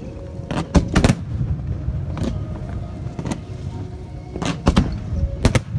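Aerial fireworks shells bursting in an irregular series of sharp bangs, several close together about a second in and again near the end, over a low rumble.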